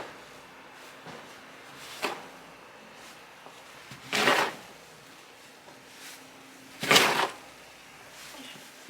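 Snow shovel scraping as it pushes and scoops snow: three short scrapes a couple of seconds apart, the last two longer and louder.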